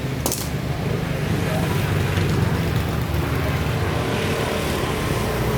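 Motorbike engine running with a steady low rumble, with one short sharp click just after the start.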